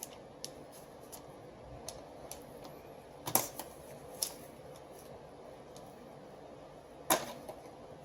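Irregular clicks and knocks of hard parts being handled, a few light ticks followed by louder clacks about three and a half seconds in and again near the end.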